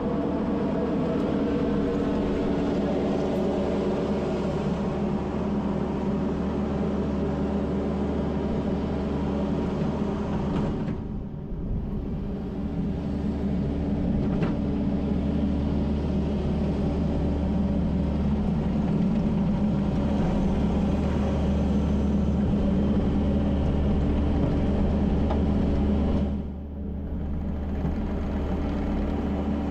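Kubota SVL75-2 skid steer's diesel engine running steadily under working load, easing off briefly twice, about eleven seconds in and again near the end.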